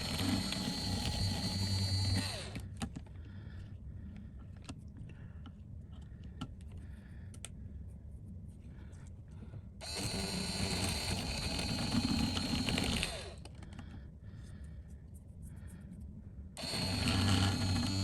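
A small electric rotary power tool runs in three bursts of a few seconds each, with a steady motor whine, as it works leftover OCA glue off an iPhone 14 Pro's OLED display panel. Between the bursts come faint light clicks and scraping.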